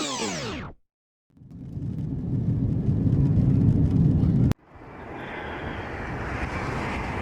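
Airplane noise in two cut-together clips: a low rumble that builds up and stops abruptly about four and a half seconds in, then a steadier, higher rushing noise. The first second holds the tail of some falling tones.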